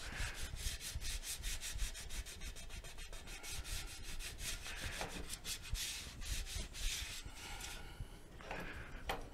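Rapid back-and-forth scrubbing on the mobility scooter's back panel as it is cleaned, several strokes a second, easing off near the end with a few last strokes.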